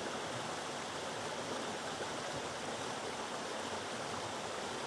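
River water rushing and splashing over boulders at a waterfall: a steady, even rush with no changes.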